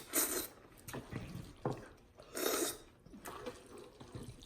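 Noisy eating of cheesy ramen noodles: two short slurps, one right at the start and one about two and a half seconds in, among wet chewing and lip-smacking clicks.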